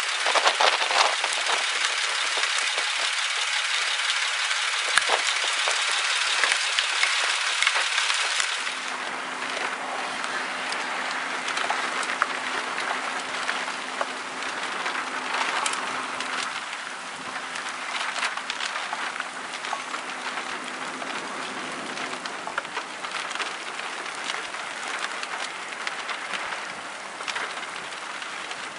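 Rain falling and pattering on a surface, a dense hiss full of small drop clicks. About eight seconds in it turns to a duller, deeper rush, with a faint steady hum underneath for a while.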